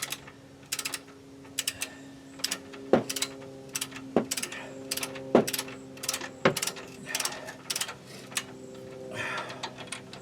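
Ratchet wrench clicking through repeated short strokes while a rear brake caliper bolt is run in, with a few sharper clacks about a second apart in the middle. A steady low hum runs underneath.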